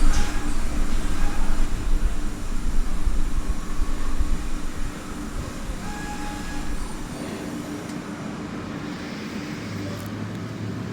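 Mazak QT200 CNC lathe running: a steady mechanical rumble with a constant hum. It drops to a quieter, even level about five seconds in.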